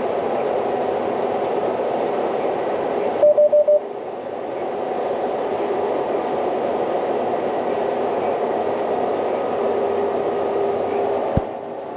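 John Deere combine harvester running at work in wheat, a steady mechanical drone. About three seconds in, a quick run of four or five short beeps sounds over it.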